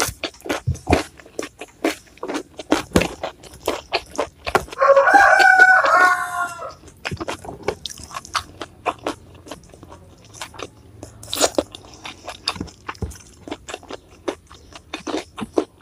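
Close-miked crunching and chewing of raw vegetables, rapid sharp crunches throughout. About five seconds in, a rooster crows once, loudly, for about two seconds.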